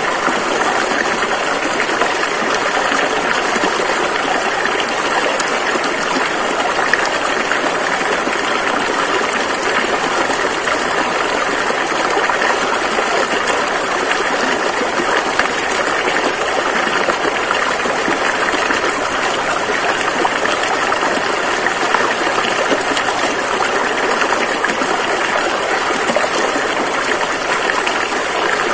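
A rushing river flowing in a steady, unbroken rush of water.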